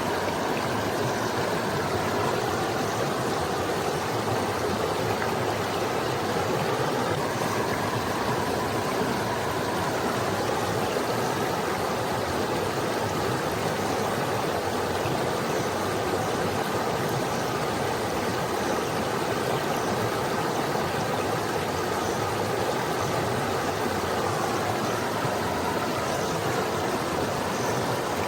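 Small forest stream flowing over rocks: a steady, even rush of running water.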